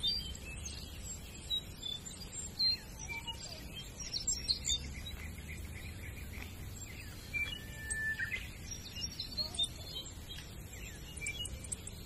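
Birds chirping and calling: many short, high chirps and whistles scattered throughout, with one longer whistle about eight seconds in, over a steady low rumble.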